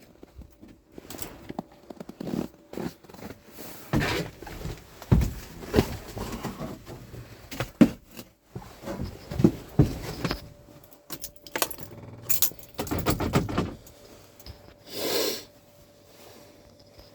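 Irregular clinks, knocks and rustles of keys being handled and someone moving about in a truck cab, with no engine running yet. A faint steady tone comes in about ten seconds in.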